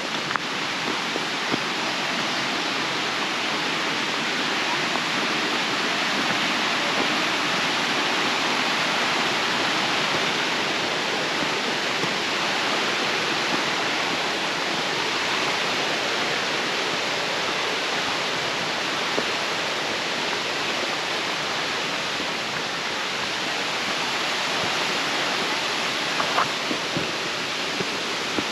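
A steady, even rushing noise, with a few faint clicks near the end.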